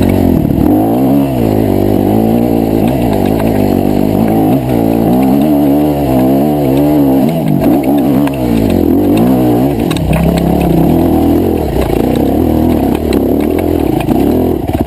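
Dirt bike engine being ridden on a trail, its revs rising and falling over and over as the throttle is worked.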